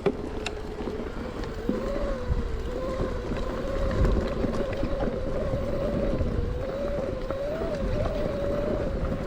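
Shimano EP8 mid-drive e-bike motor whining, its pitch wavering up and down with pedalling, over a low rumble and occasional knocks from the bike on the trail.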